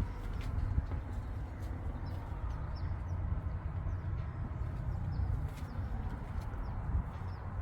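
Small birds chirping: short, high, falling notes repeated irregularly, over a steady low rumble.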